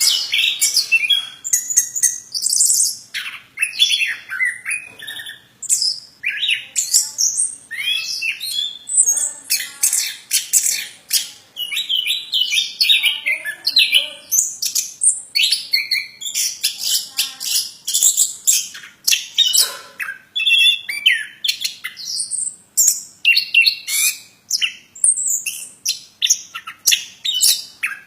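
A plontang songbird singing vigorously (gacor): a dense, nonstop run of quick, high chirps, whistles and trills.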